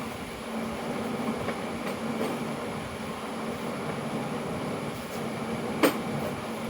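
Steady mechanical room hum with a faint low tone, and one sharp click about six seconds in.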